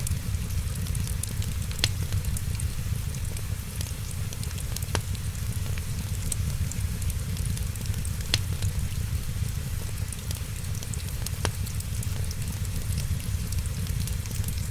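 Wood fire crackling: a steady low rumble with a scatter of small ticks, and a sharp pop every three seconds or so.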